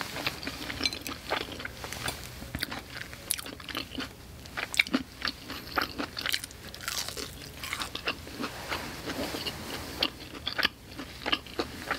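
Close-miked biting and chewing of a panko-crusted fried chicken katsu strip: a run of irregular crisp crunches and wet mouth sounds.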